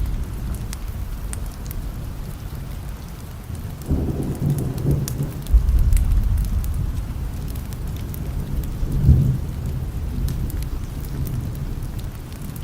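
Steady rain with rolling thunder, the low rumble swelling about four seconds in and again around nine seconds, with scattered small ticks over it.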